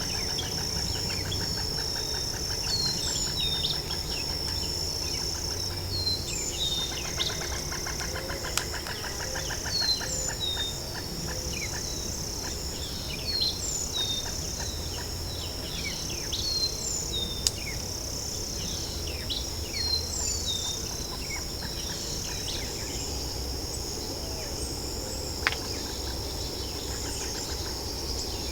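Night swamp chorus: a steady high insect drone with many short, high, falling chirps repeating over it and stretches of fast pulsing trills. A few sharp single clicks stand out, spread through it.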